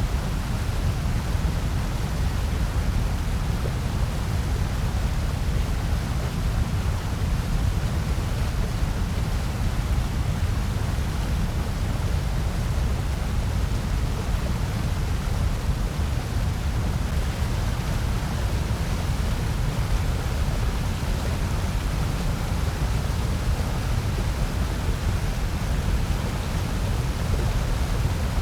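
Steady synthetic noise of a white-noise track: an even, unchanging rush, heaviest in the deep low end with a fainter hiss on top.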